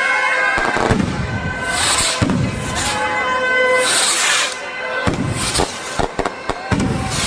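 Festival fireworks going off: a string of sharp cracks and bangs, with two long hissing swells about two and four seconds in, over music and voices.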